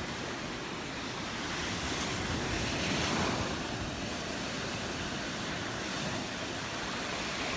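Gulf surf washing onto the beach, a steady rush of breaking waves with one wave swelling louder about three seconds in.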